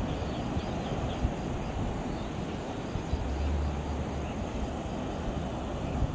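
Steady rush of sea waves and wind, with wind rumbling on the microphone and faint high chirps of birds.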